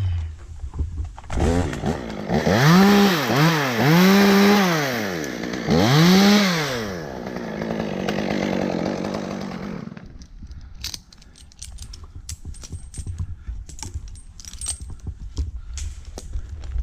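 Chainsaw revved up and down several times, then running more steadily before it stops about ten seconds in. Scattered sharp clicks follow.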